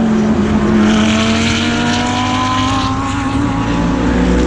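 GT3 race car engine pulling hard in one gear, heard from on board, its pitch climbing steadily as the car accelerates.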